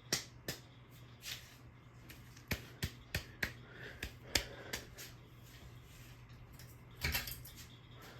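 Irregular sharp clicks and taps, about a dozen, over a steady low hum, with a loud cluster about seven seconds in.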